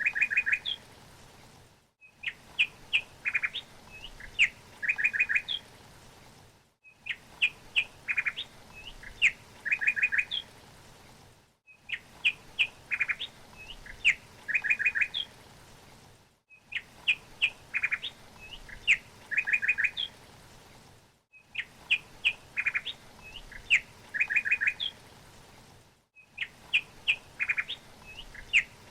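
Songbird singing a phrase of quick chirps and short trills. The same phrase repeats about every five seconds, with a brief silent gap between repeats.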